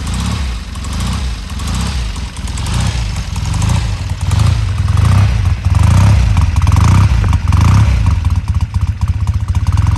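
Triumph TR6R's 650 cc parallel-twin engine running just after a cold start, getting louder about halfway through with several swells of revs.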